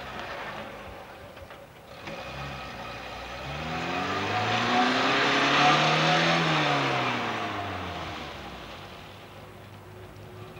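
Lada saloon's four-cylinder petrol engine revving as the car swings through a cone slalom. The engine note climbs to a peak about halfway through and then drops away, with a broad rushing noise loudest as the car passes closest.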